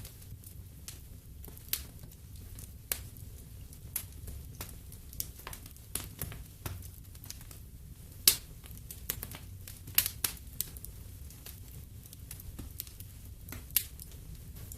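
Wood fire in a fireplace crackling: irregular sharp pops and snaps over a low steady rumble, a few pops much louder than the rest.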